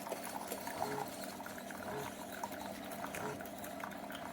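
SIFENE single-serve pod coffee maker mid-brew: coffee trickling into a glass mug with steady, irregular gurgling and sputtering.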